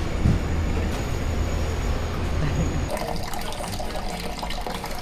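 A steady low rumble, cut off sharply about three seconds in by an even hiss of running water with light scattered clicks.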